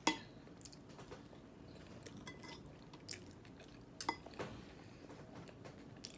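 Cutlery clinking and scraping against a dish a few times, sharpest just after the start and around four seconds in, with quiet chewing of salad between.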